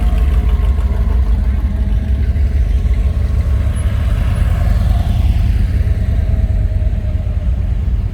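Car engines running as cars drive slowly past in a line, a steady deep rumble with one vehicle rising and falling as it passes about halfway through.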